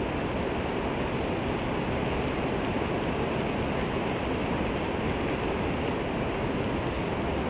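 Heavy rain falling as a steady, even rush, with no single drops or drips standing out.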